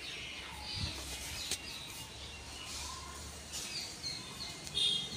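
Small birds chirping now and then in short high calls, over faint steady background noise.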